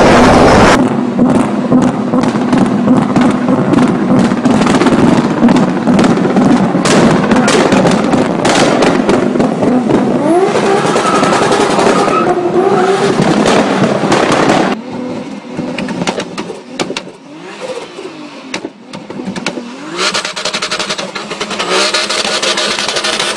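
BMW E30's swapped, big-turbo M50 straight-six revving and pulling hard under load. About two thirds of the way through it drops away suddenly, then revs rise and fall more quietly before building again near the end.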